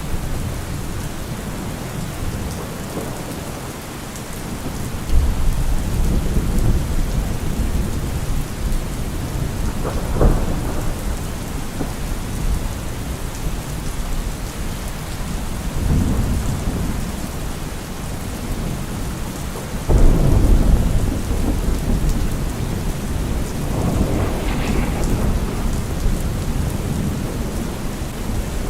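Heavy rain on a car roof, with thunder rolling in several times. The loudest clap breaks suddenly about two-thirds of the way through.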